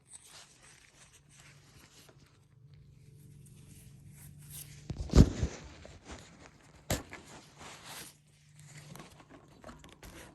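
Handling noises: rustling and small clicks, with a loud thump about five seconds in and a sharp knock about two seconds later.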